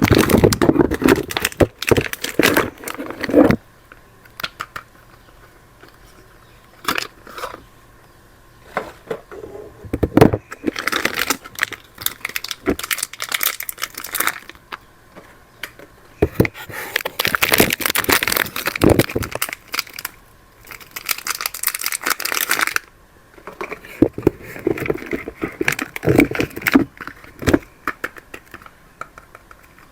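Soap bar wrappings being crinkled and torn open by hand, in several bursts of rustling with short pauses and a few single clicks between them.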